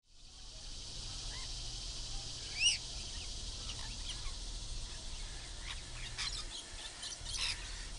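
Birds chirping over a steady hiss and low hum, fading in from silence at the start. A louder pair of short arching chirps comes about two and a half seconds in, and a quick run of chirps near the end.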